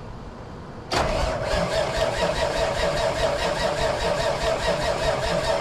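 Electric starter cranking an old Mack R model truck's diesel engine, kicking in suddenly about a second in: a steady starter whine over an even, rapid chugging as the engine turns over. It keeps cranking without catching, the engine not getting fuel after years of sitting.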